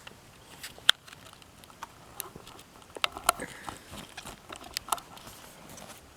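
Scattered light clicks and taps at irregular intervals, the sharpest a single click about a second in.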